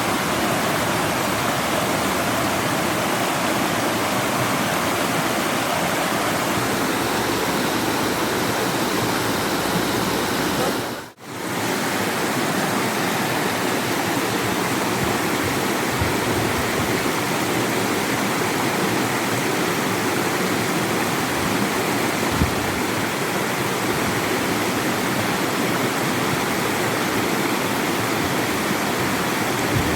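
Steady rush of flowing water, a stream or waterfall, even and unbroken except for a brief drop-out about eleven seconds in.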